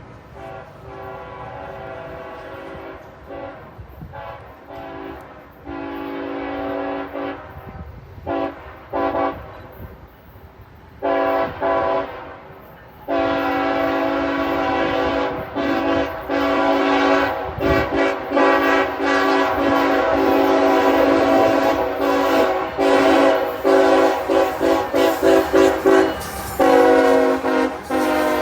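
Locomotive air horn, several tones sounding together as one chord, blowing a string of blasts that grow louder as the train comes closer. Short blasts come in the first half, then a long blast about halfway through, which breaks into quick toots near the end.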